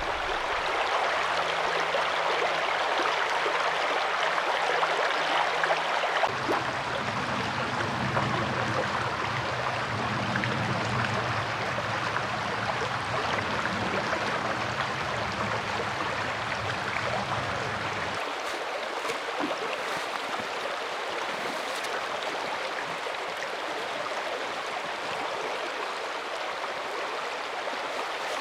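Mountain stream rushing steadily. A low steady hum sits under it and stops about two-thirds of the way through.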